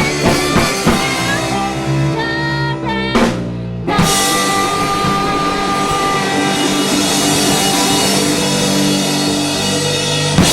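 Three-piece indie-pop band playing live: drum kit and guitar with some singing. About three seconds in the drums stop, and after a brief break the band plays on with long held chords and only a few drum hits.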